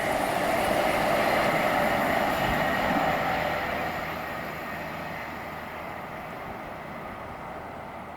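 Train running past on the track, its noise fading steadily from about three seconds in as it moves away.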